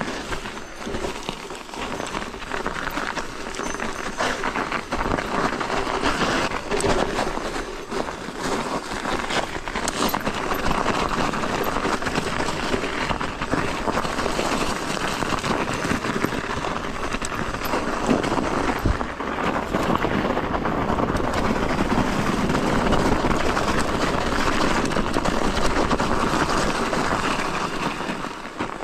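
Continuous rolling noise of an electric mountain bike riding on a snow-covered trail, its tyres on snow, with scattered knocks; it grows louder about a third of the way through.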